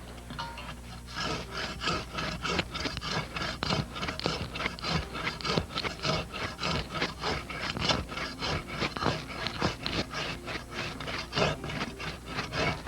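Hand pruning saw cutting through a tree branch, with quick, even back-and-forth rasping strokes that start about a second in.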